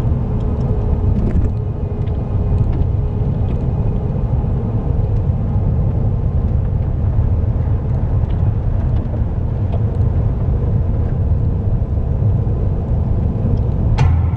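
Steady low rumble of a car's engine and tyres heard from inside the cabin while driving on snowy roads.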